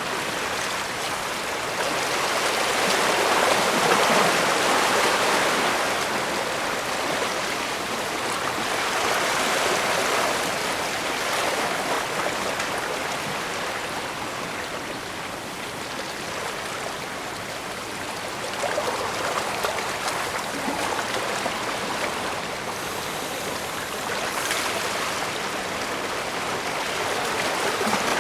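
Small waves washing against the shore: a steady rush of water that swells and ebbs every few seconds.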